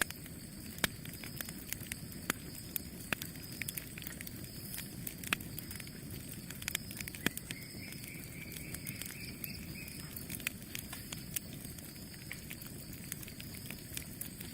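Campfire burning: a steady low rush of flames with frequent sharp crackles and pops from the burning wood, coming at irregular intervals.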